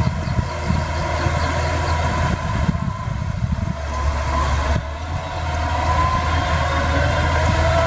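Diesel engine of heavy earthmoving machinery running steadily, with a low rumble and a faint, wavering whine above it.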